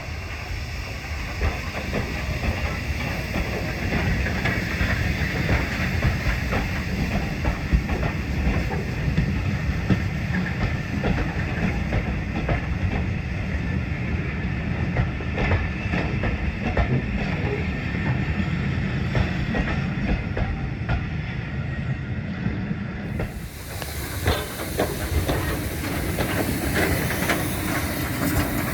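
Heritage train running past at close range: dense clattering of wheels over the rail joints over a low rumble, with a steady hiss. The sound changes abruptly about 23 seconds in.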